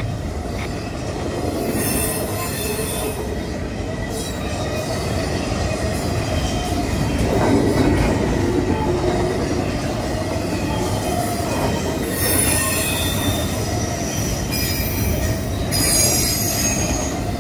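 Two double-stack intermodal container trains rolling past each other on adjacent tracks: a steady rumble of steel wheels on rail. High-pitched wheel squeal comes and goes, about two seconds in, around twelve seconds and again near the end.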